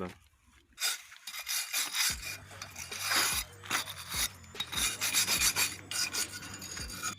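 Steel coil spring scraping and rubbing against the strut's lower spring seat as it is worked into its pocket on a new front shock absorber strut. A low, even beat runs underneath from about two seconds in.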